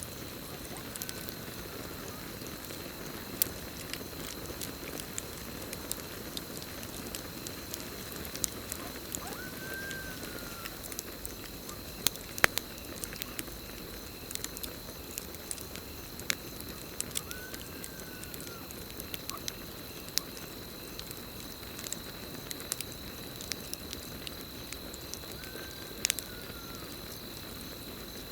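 Campfire crackling with frequent sharp pops over a steady hiss of burning, with a steady high cricket trill behind it. A short call that rises and falls comes back about every eight seconds.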